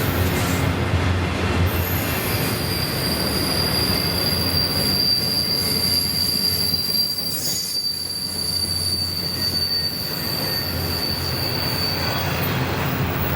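Freight train cars rolling past with a low rumble, and a steady high-pitched wheel squeal that starts about two seconds in and stops shortly before the end.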